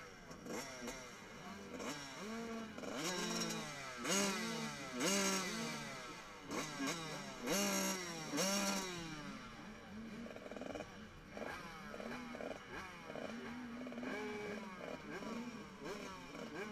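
Several motocross bikes racing, their engines revving up in repeated rising sweeps that drop back with each gear change. The loudest passes come in the middle, and fainter bikes carry on near the end.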